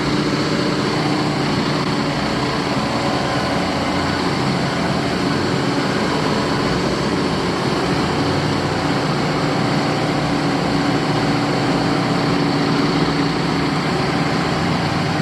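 Engine of heavy construction machinery running steadily at a constant pitch, with a low rumble.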